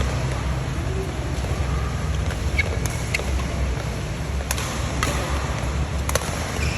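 Badminton rally: rackets striking a shuttlecock, sharp short pocks several times, some in quick pairs, over a steady low rumble.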